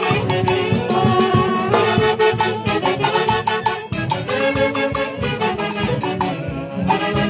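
Live Andean orquesta típica playing dance music: a melody line over a steady, driving beat.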